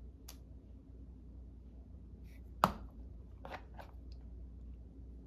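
A few light clicks and taps from handling craft materials on a desk, the sharpest about two and a half seconds in and two softer ones just after, over a steady low hum.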